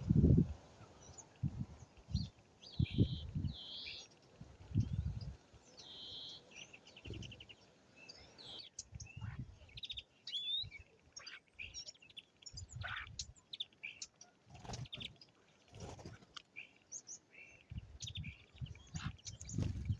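Small birds chirping and trilling in short, high calls, with irregular low rumbling thuds mixed in.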